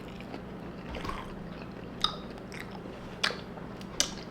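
A person chewing a mouthful of Doritos nachos, with a few sharp crunches about two, three and four seconds in.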